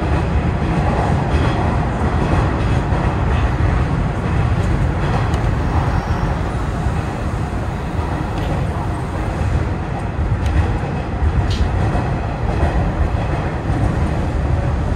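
Hanshin 9000-series electric train running through a tunnel, heard from inside the front car: a steady, loud low rumble of wheels on rail with a few faint clicks.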